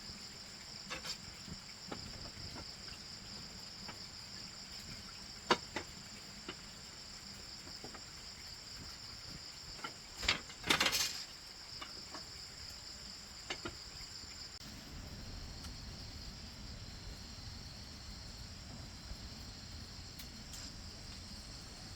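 A steady, high-pitched chorus of insects buzzing without a break, broken by a few sharp knocks, with the loudest cluster of clatter about halfway through.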